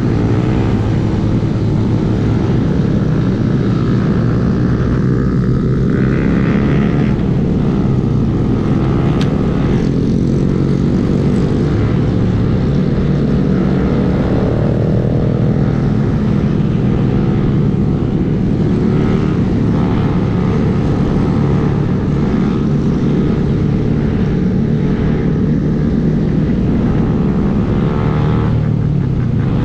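A small Honda 125 cc single-cylinder motorcycle engine running steadily while riding, its note rising and falling a little.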